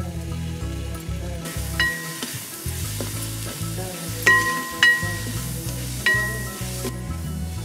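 Sliced onions and green chillies sizzling in hot oil in a metal pot while being stirred with a wooden spatula. The sizzle starts about one and a half seconds in, and four sharp clinks ring out over it.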